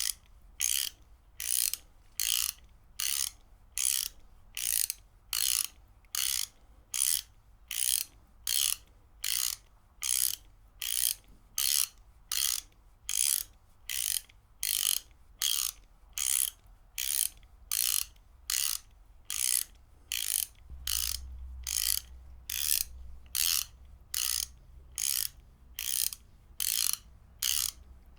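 Ratchet wrench being worked back and forth, each stroke a quick run of pawl clicks, about two strokes a second in an even rhythm.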